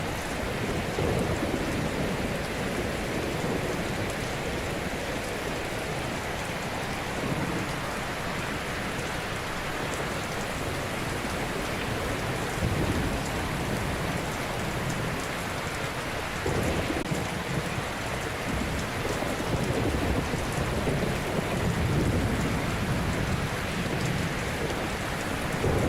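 Ocean waves breaking gently on a shore: a continuous wash of surf with low rumbling swells every few seconds.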